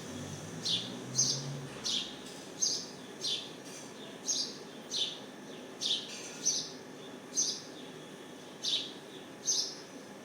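A small bird chirping: about a dozen short, high, downward-sliding chirps repeated at a steady pace, roughly one every two-thirds of a second, over a low steady background hum.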